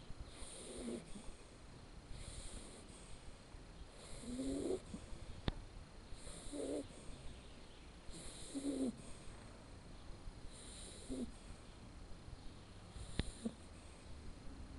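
Shar Pei puppy snoring in its sleep, a snore with each breath about every two seconds. Two sharp clicks come in, about a third of the way in and near the end.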